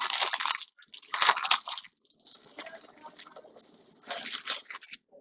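Packaging crinkling and rustling as it is handled and opened, in irregular bursts, loudest at the start, around a second in and near the end.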